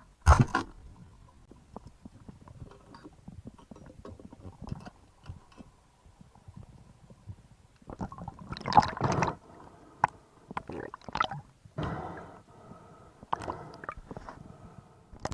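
Strange underwater noises of unknown source: gurgling with scattered knocks and clicks, a sharp knock at the start, a louder burst of noise a little past halfway, and short tonal groans near the end. The uploader wonders whether a large marine mammal makes them.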